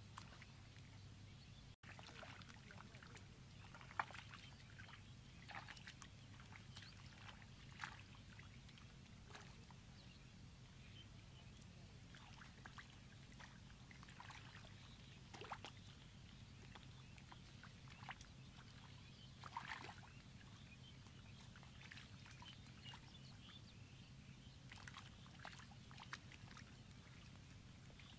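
Soft wet mud squelching and sucking as bare hands dig and scoop into it, in short, irregular, faint squelches, over a faint steady low hum.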